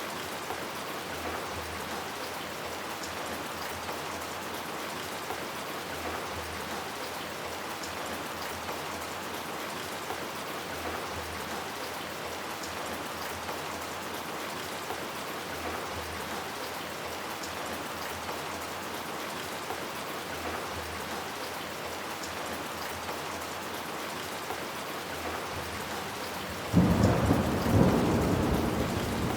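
Steady heavy rain falling, with a sudden loud clap of thunder near the end that rolls on as a low rumble.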